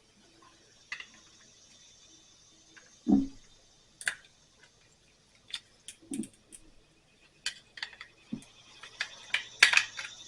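Small metal clicks and taps of tools and parts being handled while a lawn mower carburetor is taken apart, with a few dull knocks and a quick cluster of clicks near the end as a part is worked loose.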